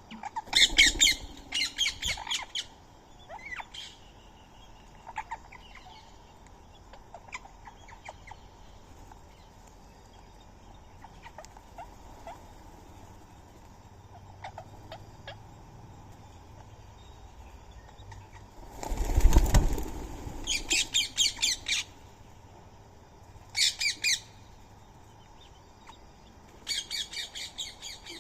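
Birds giving harsh, rapid chattering squawks in several short bursts: near the start, then repeatedly in the last third. About two-thirds through comes a loud flurry of wingbeats as a bird takes off or lands.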